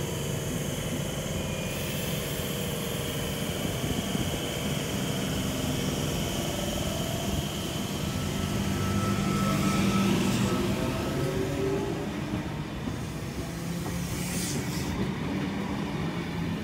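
NSW TrainLink V set double-deck electric intercity train moving along the platform: a steady rumble of wheels on rail with a low hum from the train that is loudest around ten seconds in.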